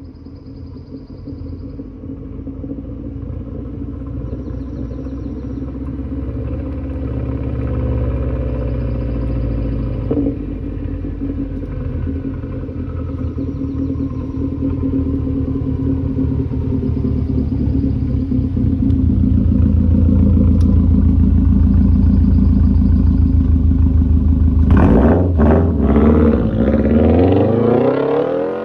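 Subaru STi's turbocharged 2.5-litre flat-four through a Remark cat-back exhaust with muffler deletes and a non-resonated mid pipe, running and growing steadily louder, with a sharp rev climbing in pitch near the end. The note is loud and raspy.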